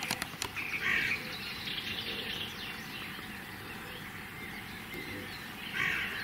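Outdoor bird calls: a short call about a second in and another near the end, over faint chirping, with a quick run of clicks right at the start.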